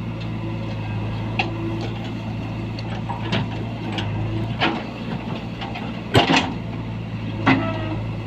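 JCB 3DX backhoe loader at work: its diesel engine running steadily, with a series of knocks and clatters, the loudest a double knock about six seconds in.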